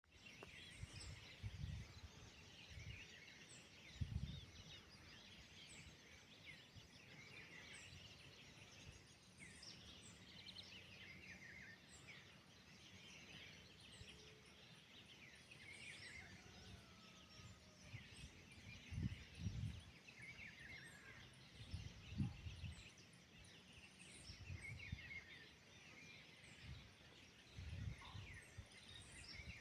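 Faint birdsong: many short chirps and calls from several birds, with occasional brief low rumbles.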